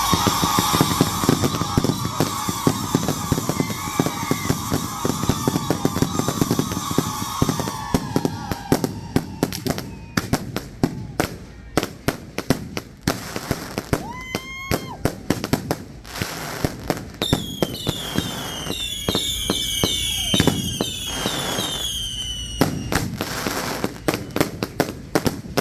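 Consumer fireworks cake firing: dense crackling reports throughout, with a long high whistle that slowly falls in pitch over the first eight seconds or so. Near the end comes a run of short whistles, each falling in pitch.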